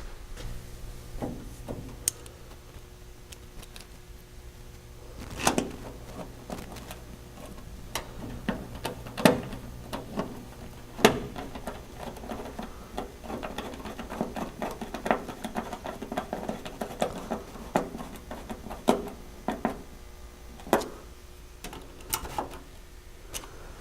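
Irregular clicks and knocks from hand work on a truck door panel as its screws are fitted, with a dense run of small ticks in the middle, over a low steady hum.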